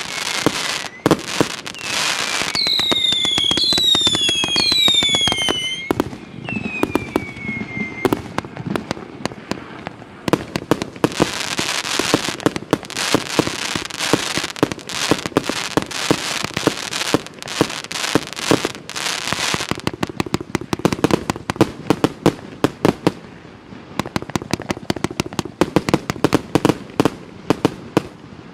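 A 308-shot multi-calibre firework cake firing: rapid launch thumps and shell bursts with crackling stars. About three to eight seconds in, a run of whistles sounds, each falling in pitch, and later come long stretches of dense crackling.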